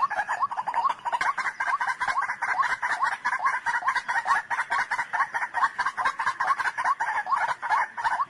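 White-breasted waterhen calling: an unbroken run of short, rapidly repeated notes, several a second.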